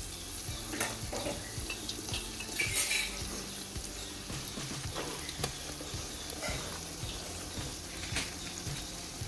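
Egg, capsicum and chopped onion sizzling in hot oil in a pot while a spoon stirs them. Scattered clicks and scrapes of the spoon against the pot sound over the steady sizzle.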